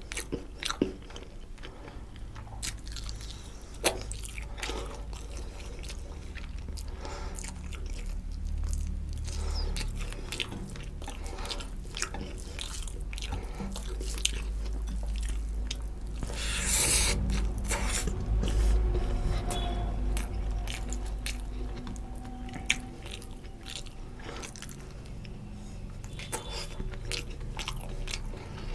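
Close-miked chewing and biting of rohu fish curry and rice eaten by hand, with many wet mouth clicks and crunches. About two thirds of the way through there is a louder rush of noise lasting about a second.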